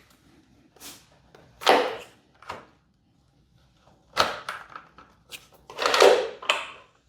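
Several separate clunks and scrapes of hands handling parts of the outboard motor, with short quiet gaps between them.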